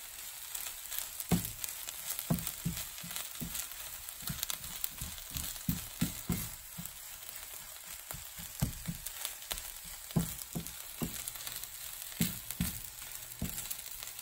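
Squid kimchi fried rice sizzling in a nonstick frying pan as a silicone spatula stirs and presses it, with irregular soft knocks and scrapes of the spatula on the pan over a steady hiss.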